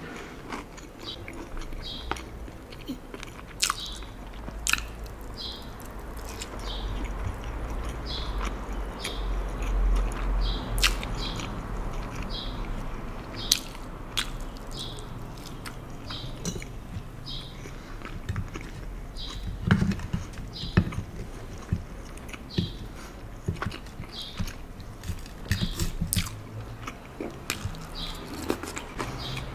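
Close-miked chewing of soft tofu forked from a salad, with a steady rhythm of moist mouth clicks and a few sharper clicks between chews.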